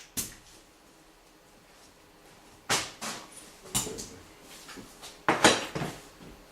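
Tools and car parts being handled during repair work: a short knock, then clusters of clunks and rattles, the loudest near the end.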